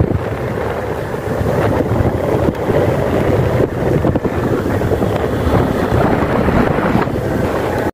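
Wind buffeting the microphone: a loud, irregular rumbling noise that cuts off suddenly at the end.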